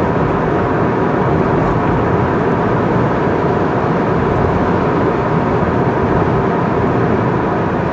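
A car cruising on an expressway: steady, unbroken tyre, wind and engine noise, with a faint steady hum of tones mixed in.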